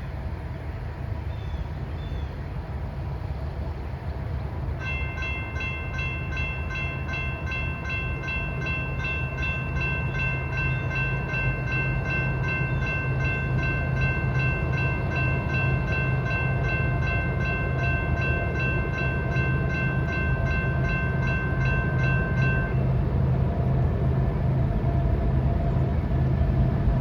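Approaching diesel freight train led by a CP SD70ACU locomotive, its low engine rumble growing steadily louder. From about five seconds in, a grade crossing warning bell rings rapidly and evenly for about eighteen seconds, then stops.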